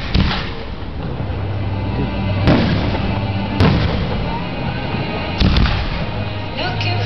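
Fireworks display: aerial shells bursting in sharp booms, about five in all, two of them in quick succession a little past halfway, over music playing through loudspeakers.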